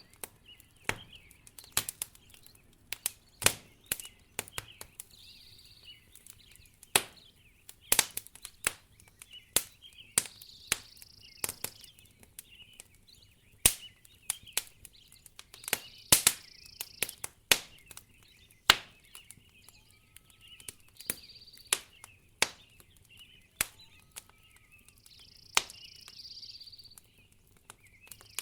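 Wood fire crackling in a fireplace: irregular sharp pops and snaps, some loud, over a faint steady hiss.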